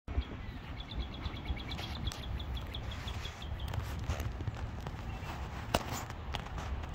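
A songbird trilling a fast run of high, evenly repeated notes, about six a second, from about a second in for nearly three seconds, over a low rumble with scattered soft thuds and clicks.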